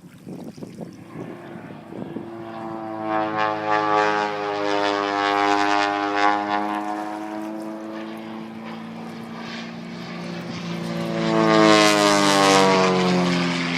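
Piston-engined propeller aircraft flying low overhead, its steady engine note swelling twice and loudest about twelve seconds in, then dropping in pitch as it passes and moves away.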